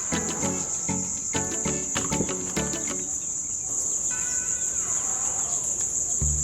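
Steady high-pitched insect drone, with background music of plucked notes through the first half.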